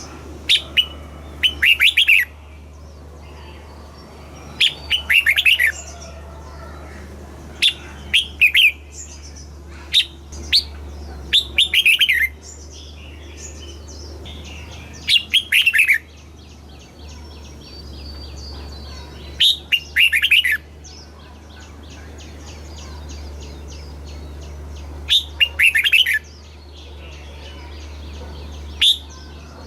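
Red-whiskered bulbul singing short, loud, warbled phrases that fall in pitch, about eight in all, one every few seconds, over a steady low hum.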